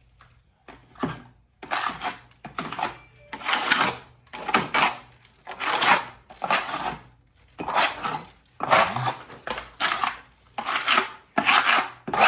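A plastering knife scraping hot mud (setting-type joint compound) across a plaster wall in repeated strokes, about one or two a second, as the holes and pits are packed and smoothed.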